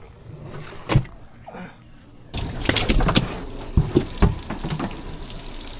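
Water splashing and sloshing, with several sharp slaps in quick succession starting a little past two seconds in, after a single sharp click about a second in.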